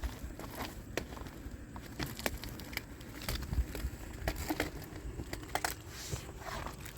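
Irregular crinkling and crunching with scattered sharp clicks.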